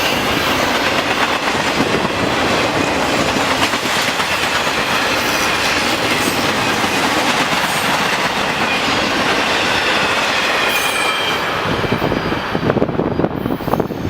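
A long intermodal freight train rolling past, its cars clicking over the rail joints with a faint, high wheel squeal. Near the end the rolling noise thins and turns uneven as the train's rear passes.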